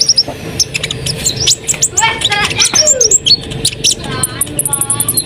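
Brown-throated sunbird (kolibri ninja) singing energetically: a busy string of sharp, high chirps, trills and short whistled slides, ending in a fast, very high rattle of repeated notes.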